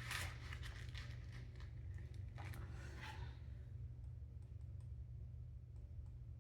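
Faint rustling and light clicks of paper bills and cash envelopes being handled, mostly in the first few seconds, over a low steady hum.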